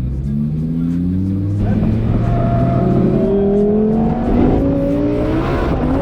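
Lamborghini Huracán's V10 engine under hard acceleration on track. Its note climbs in pitch, drops back at each of several upshifts, then climbs again.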